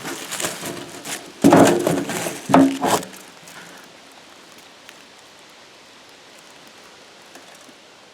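Debris being handled and rummaged through: rustling and clatter, then two loud thunks about a second apart, after which only faint background remains.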